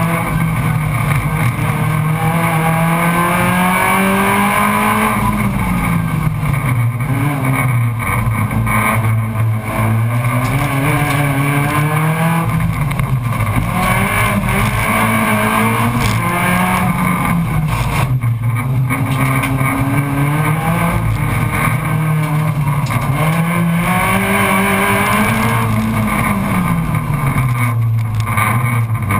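Race car engine heard from inside the stripped cabin, repeatedly rising in pitch under acceleration and dropping off as the driver lifts, brakes or shifts through the corners of a coned course.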